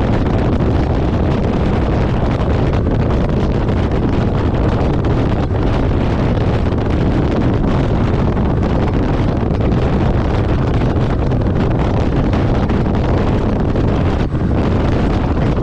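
Steady low rumble of a truck on the move, with wind noise on the microphone.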